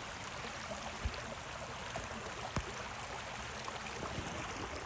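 Creek water running steadily, with a couple of faint knocks.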